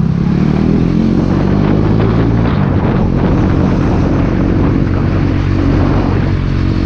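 KTM Duke 390's single-cylinder engine with an Akrapovic exhaust running under way, its revs shifting a little.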